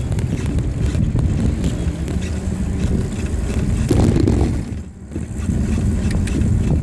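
Wind buffeting the microphone on a moving bicycle, a steady low rumble that dips briefly about five seconds in.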